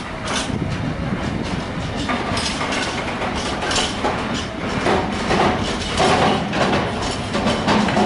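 A train rolling past, its wheels knocking over the track in an irregular clatter that grows louder in the last few seconds.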